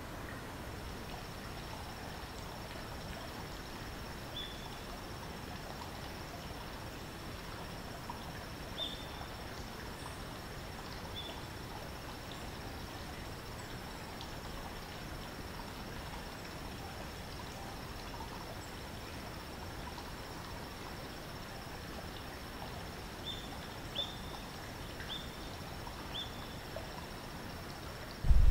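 An insect trilling on one steady high note, over a steady outdoor background hiss. A few short high chirps come now and then, several of them close together near the end.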